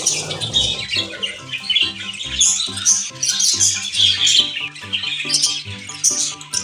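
Budgerigars chattering and chirping in quick, irregular bursts over background music with a steady beat.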